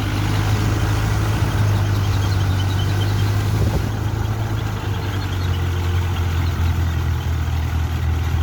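Kubota tractor's diesel engine running steadily with a deep, even hum.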